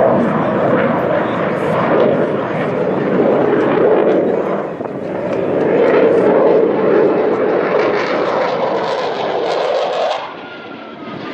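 Eurofighter Typhoon's twin jet engines making a loud, continuous roar as it passes in a display flight. The roar swells and eases, then drops away sharply about ten seconds in.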